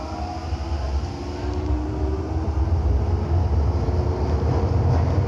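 Minatomirai Line limited express electric train running, heard from inside the car: a low rumble with a motor whine that slowly rises in pitch and grows louder as the train gathers speed.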